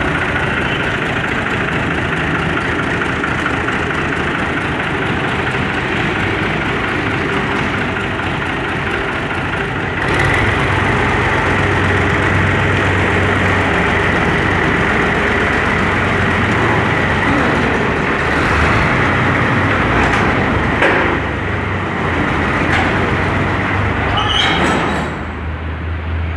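Tractor engine running steadily, getting a little louder about ten seconds in and dropping back slightly near the end.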